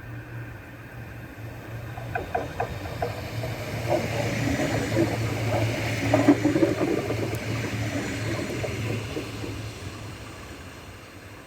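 A train passing: its running noise swells to a peak about six seconds in and then fades, over a steady low hum. Clusters of sharp clicks and knocks from the wheels on the rails come in the middle.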